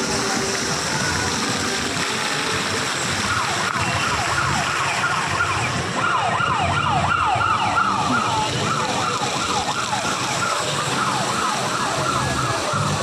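A siren sounding in quick, repeated falling wails from about three seconds in until near the end, over a steady background noise.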